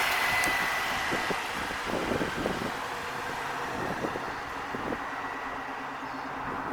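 Supercharged 3800 Series II V6 of a Chevrolet Monte Carlo SS running. A high supercharger whine and the engine's louder running fade over the first few seconds, then it runs on steadily at a lower level.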